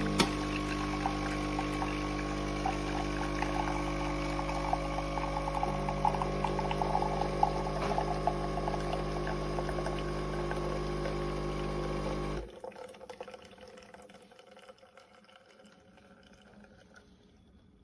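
De'Longhi Dedica Style espresso machine's pump running with a steady hum while liquid pours. The pump cuts off sharply about twelve seconds in, leaving faint drips.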